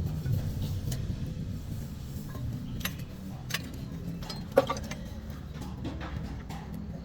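Scattered metallic clicks and clinks of tools and parts being handled, with one louder knock past the middle, over a steady low rumble.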